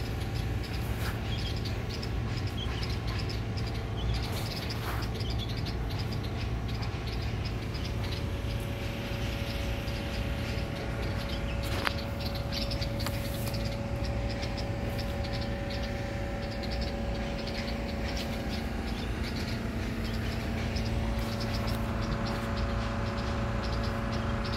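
Many small birds chirping over a steady low hum.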